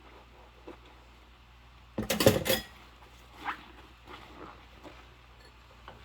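Dishes and cutlery clattering together during hand dishwashing: a short run of knocks and clinks lasting about half a second, two seconds in, then a few softer knocks of handling.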